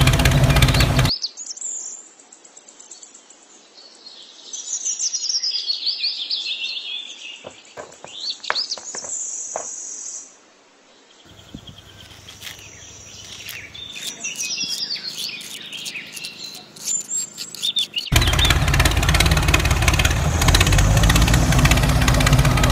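Small birds chirping and singing, with a few light clicks mixed in. A loud steady sound with a low hum fills the first second and cuts back in about 18 seconds in.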